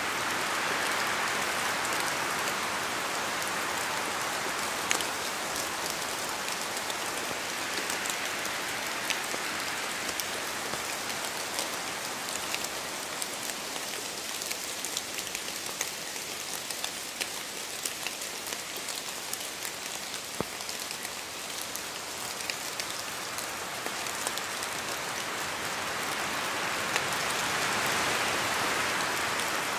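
Steady rain falling, an even hiss with scattered sharp drop ticks, swelling slightly near the start and again near the end.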